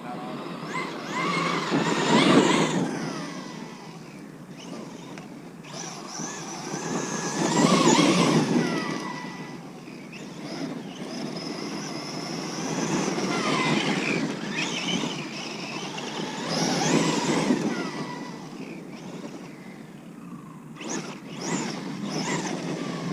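Kyosho USA-1 electric RC monster truck driving hard on dirt and rock, its electric motor whining up and down through several passes of hard acceleration, with tyre noise over the ground. There are loud surges at about 2, 8, 14 and 17 seconds and a shorter one near the end.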